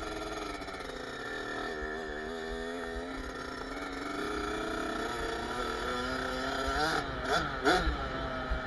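Kawasaki KX65's 65 cc two-stroke single-cylinder engine running as the bike is ridden, its pitch rising and falling with the throttle. The pitch warbles about two seconds in, and there are a few quick, louder revs near the end.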